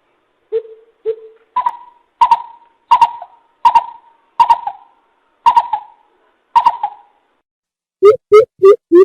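Coucal (bìm bịp) calling: deep, hollow hoots. Two lower hoots come first, then a run of about nine evenly spaced higher hoots, each trailing off briefly. Near the end a quicker, lower run of hoots begins.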